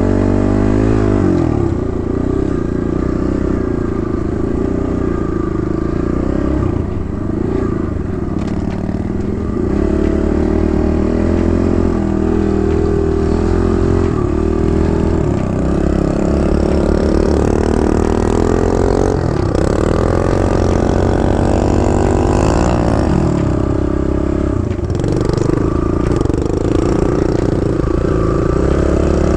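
Kawasaki KLX110 dirt bike's small single-cylinder four-stroke engine running under way, its pitch rising and falling over and over with the throttle.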